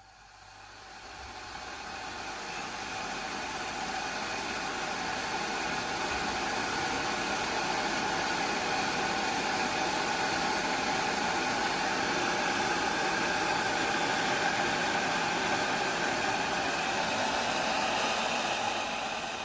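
Electric glass kettle heating water at a rolling boil, giving a steady rushing, bubbling noise. The noise builds over the first few seconds and dies away over a second or two near the end.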